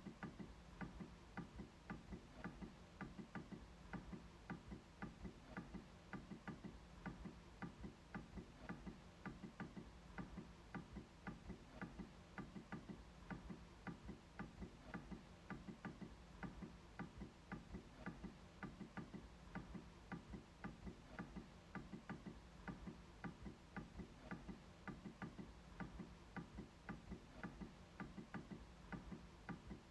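MacBook trackpad being clicked over and over, faint even clicks at about two to three a second.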